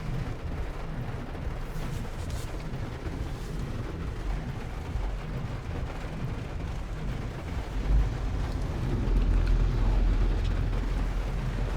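Low steady rumble inside a car creeping along behind a slow vehicle, swelling briefly about eight seconds in and staying louder for a couple of seconds after.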